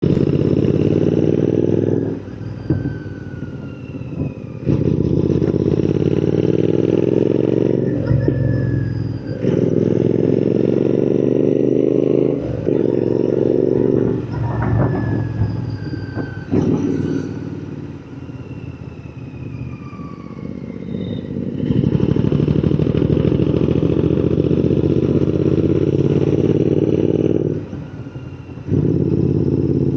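Royal Enfield Continental GT 650's 648 cc parallel-twin running through an AEW 103 aftermarket exhaust, accelerating with the pitch climbing and then dropping back several times as it goes up through the gears. Past the middle it eases off to a quieter, lower run for a few seconds, then pulls hard again.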